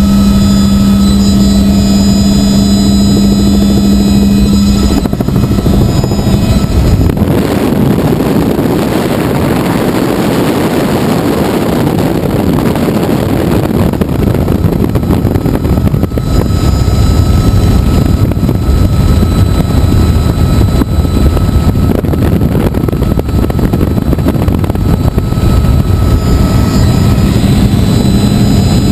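Helicopter in flight, heard loud and close: a steady low hum for the first few seconds gives way to a dense rushing noise about seven seconds in, and the hum comes back near the end.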